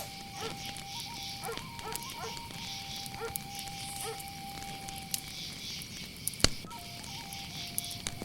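Night insects such as crickets chirring steadily, over a thin steady whine that holds for several seconds, breaks off past the middle and then resumes. Faint distant dog barks come in the first half, and a couple of sharp cracks near the end.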